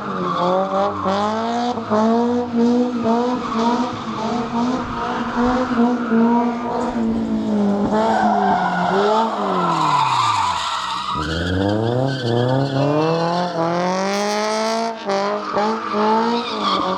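A car engine held at high revs while the tyres squeal and skid, as in a donut or burnout. About ten seconds in, the revs fall away sharply, then climb straight back up.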